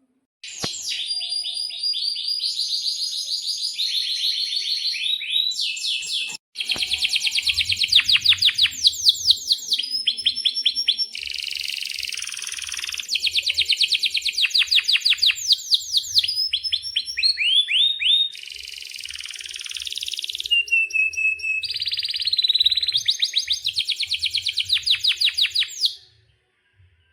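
Domestic canary singing a long, continuous song of fast trills and rolls, high-pitched, with one brief break about six seconds in; it stops near the end.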